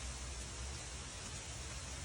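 Heavy rain falling steadily on forest leaves: an even hiss with a low rumble underneath.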